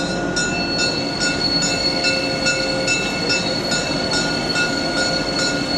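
A train running at steady speed, with an even hissing beat about two and a half times a second over a steady high-pitched ringing squeal.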